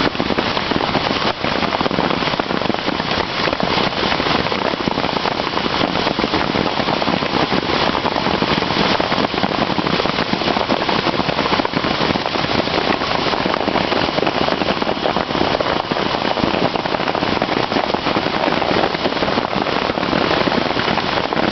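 Hailstones pelting down in a dense, unbroken clatter of countless small impacts, steady throughout.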